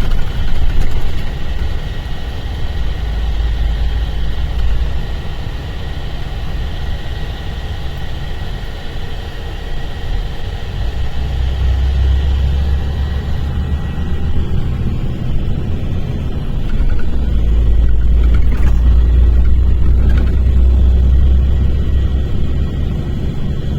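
Mercedes-Benz O-500RSD coach's diesel engine running, a continuous deep rumble that grows louder about halfway through and again for a longer stretch in the last third.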